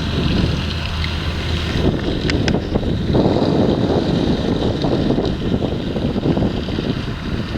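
Wind buffeting the microphone over the steady running of farm machinery engines, gustier from about three seconds in.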